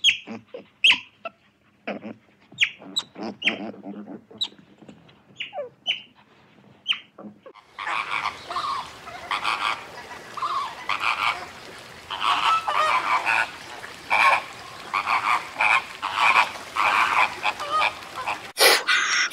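Otters chirping and squeaking in short, sharp, separate calls for about the first seven seconds. Then a flock of flamingos takes over, honking continuously in overlapping goose-like calls. A louder, different sound starts near the end.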